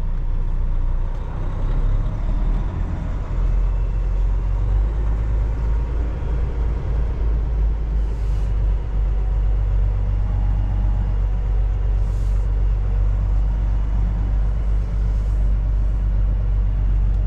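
Kenworth T680 semi truck's diesel engine running steadily, heard from inside the cab, with a few short hisses of air.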